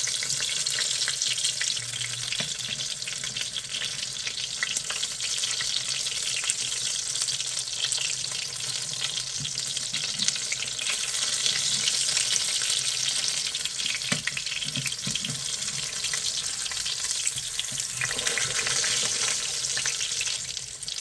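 Breadcrumb-coated chicken breast shallow-frying in oil in a frying pan, a steady sizzle with fine crackles throughout.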